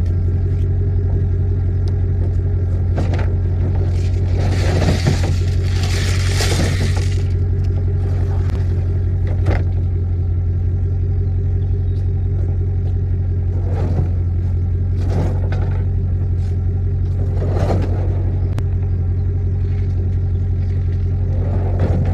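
Truck engine running steadily with a constant low hum. A scraping noise comes about four to seven seconds in, and a few brief knocks and clunks fall here and there.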